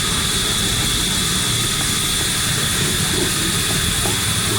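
Steady machine noise: an even hiss with a constant high whine, holding level throughout without strokes or changes.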